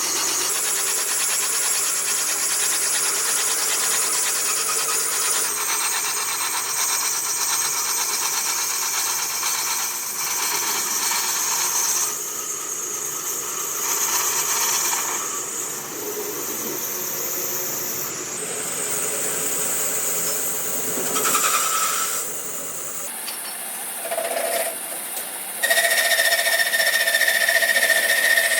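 Metal-machining noise from cylinder-sleeve production: steady machine sound with high whining tones, switching abruptly to a different machine sound several times.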